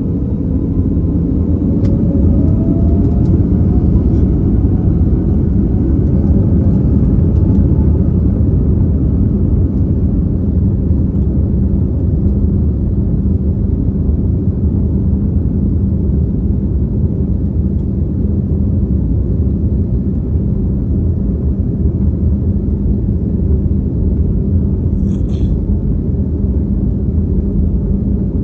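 Airbus A321neo's Pratt & Whitney PW1100G geared turbofan engines at takeoff power, heard from inside the cabin: in the first few seconds the engine tones rise and the sound grows as thrust builds, then a loud steady rumble of engines and airframe. A short high-pitched sound comes about 25 seconds in.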